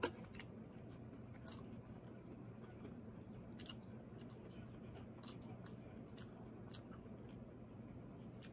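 Close-up chewing of cooked broccoli, with soft crunches and small mouth clicks scattered throughout. Right at the start comes one sharp clink of metal chopsticks against a stainless steel bowl.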